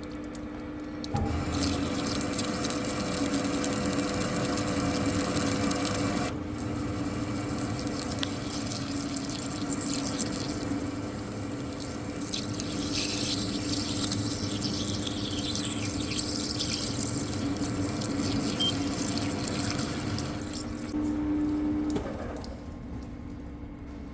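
Lathe machining the spigot on a steel hydraulic cylinder rod: a steady machine hum under a hissing cutting noise that starts about a second in and stops near the end.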